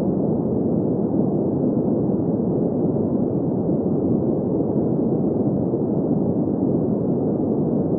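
Steady, unchanging sleep-aid noise with no treble, a soft even rushing sound without any tones or rhythm.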